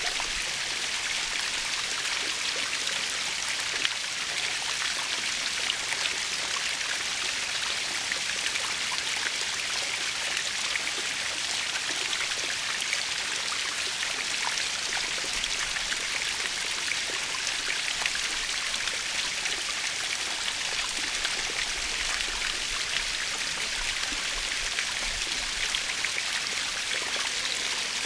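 Waterfall: a steady hiss of falling water with a fine patter of splashing droplets.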